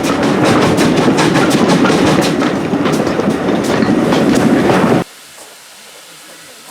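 Train running past, its wheels clicking quickly over the rail joints; the sound cuts off suddenly about five seconds in, leaving a quiet background.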